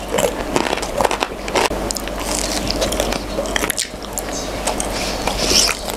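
Close-miked biting and chewing of crispy Pontianak fried banana (pisang goreng) coated in crunchy batter flakes, with irregular crisp crunches throughout.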